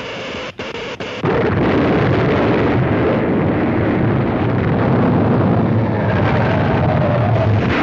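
Cartoon sound effect of an artificial earthquake: a loud, continuous low rumble that cuts in suddenly about a second in, after a humming tone broken by brief gaps.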